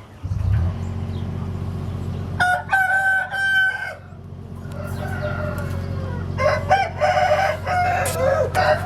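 Rooster crowing twice, each crow a long call broken into a few drawn-out notes, over a steady low hum.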